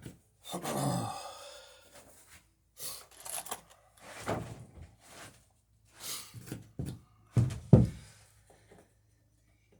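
Hammer blows on the dory's rivets, an irregular series of thuds and knocks on the wooden planking, with the two loudest strikes close together about three-quarters of the way in.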